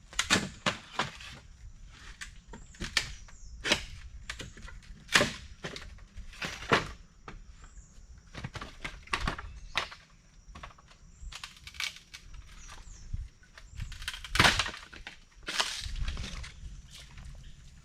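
Sharp wooden cracks and knocks at irregular intervals, roughly one every second or so, from sticks and branches being chopped and broken, with one louder crack about three-quarters of the way through.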